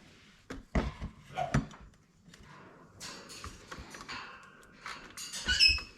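Knocks and clinks of bowls and containers being handled on a kitchen worktop while dried parrot food is portioned out, with some rustling and a short high ring near the end.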